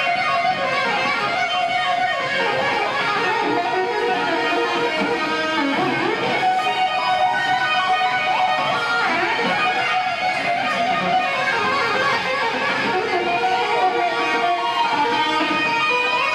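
Live electric guitar solo: a lead line with bending, gliding notes, heard through a poor-quality recording.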